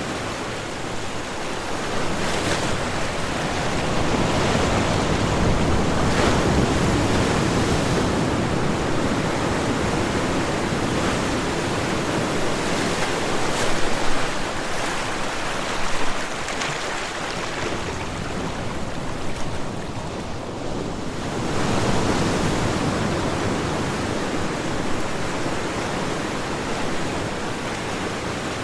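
Ocean surf: waves breaking and washing on a shore in a continuous hiss that swells and ebbs every several seconds.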